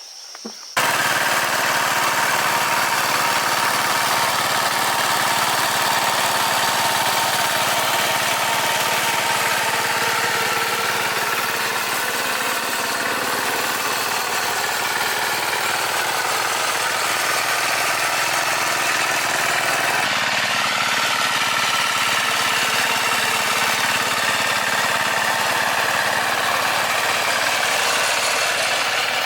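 Farm machine's engine running steadily as it harrows the flooded ground, cutting in abruptly about a second in.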